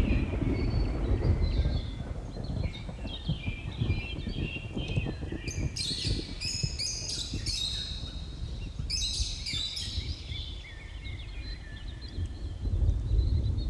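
Several birds chirping and singing over an uneven low rumbling background noise. Two bouts of loud, rapid, sharp chirps come about halfway through, and the rumble swells at the start and again near the end.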